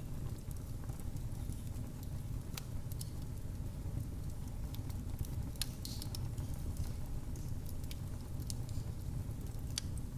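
Wood fire crackling in a fireplace: irregular sharp pops and snaps scattered over a steady low rumble of the burning fire.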